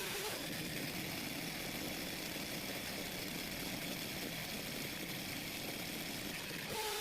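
An engine running steadily at idle. Near the end the sound changes suddenly to a steadier whining tone.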